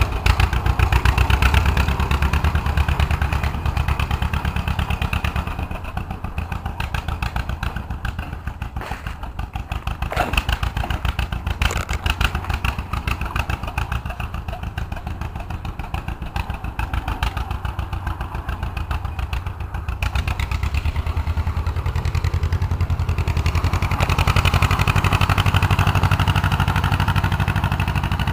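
Homemade tractor's engine running, with a steady, fast firing beat. It runs louder at first, eases off through the middle, then picks up again and is louder toward the end.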